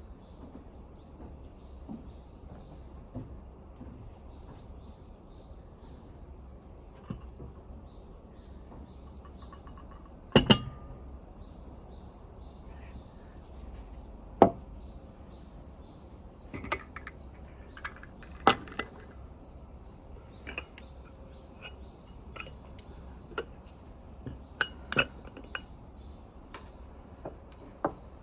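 Small birds chirping faintly in a forest, with sharp clinks and knocks every few seconds, the loudest a double knock about ten seconds in.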